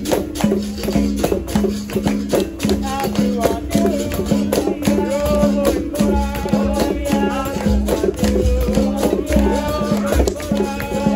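Capoeira roda music: a berimbau plays a repeating low note over a shaken caxixi rattle and steady hand-drum strikes, with a group singing the song from about three seconds in.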